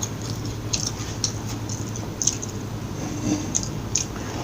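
Close-miked chewing of fast food, with irregular small wet clicks and mouth sounds a few times a second.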